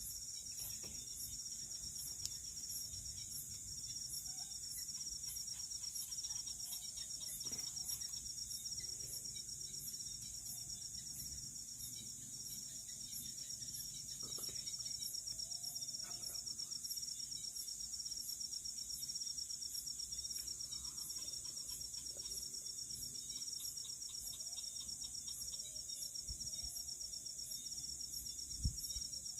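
Night insect chorus: crickets keeping up a steady high-pitched chirring with a regular pulsing trill.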